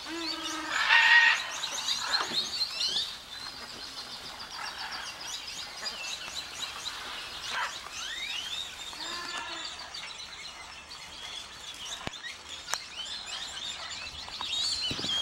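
Many birds chirping and calling together, with a louder call about a second in and sweeping calls near the middle.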